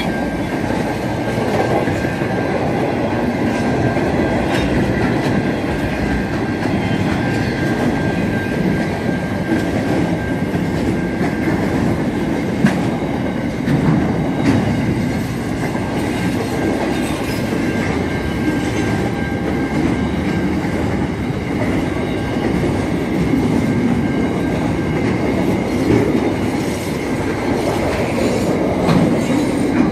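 Double-stack intermodal freight train rolling past: a steady rumble of wheels on rail with scattered clicks and clacks. A thin, high, steady squeal runs over it for much of the time.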